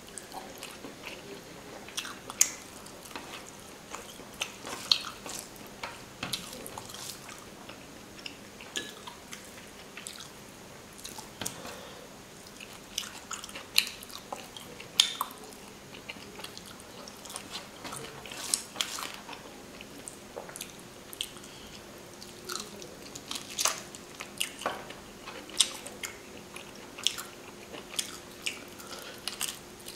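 Close-miked eating: a man chewing mouthfuls of rice and fish curry, with frequent irregular wet smacks and clicks of mouth and lips, and squelches of fingers mixing rice into the curry on a steel plate.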